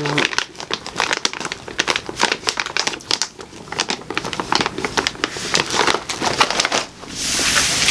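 Plastic snack packaging crinkling as it is handled, with many quick, irregular crackles. Near the end it gives way to a steadier rustling hiss.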